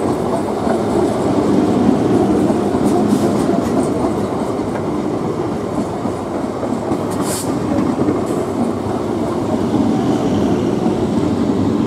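Electric multiple unit (EMU) suburban train running past at speed: steady noise of its wheels on the rails. A brief high-pitched squeal about seven seconds in.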